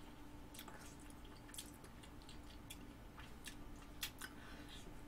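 Faint close-up chewing of a mouthful of soft instant pasta, with small wet mouth clicks coming irregularly throughout over a faint steady hum.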